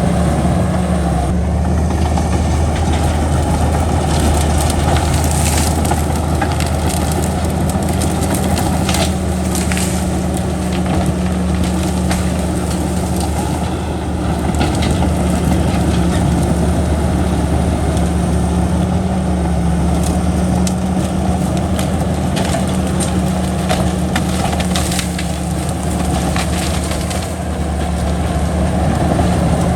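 Bulldozer's diesel engine running steadily under load, with stones and soil crunching and scraping at intervals as it pushes fill.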